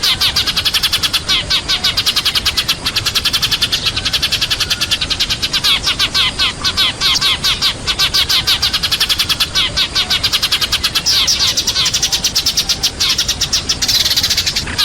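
Sparrows chirping in a flock: a dense, unbroken run of rapid, overlapping chirps, many a second. It is a sparrow flock call of the kind played as a lure to draw sparrows in.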